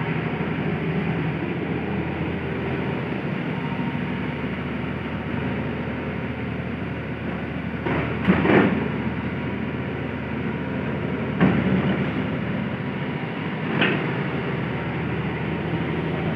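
Hitachi excavator's diesel engine running steadily, with three short, loud clanks about halfway through and twice more near the end.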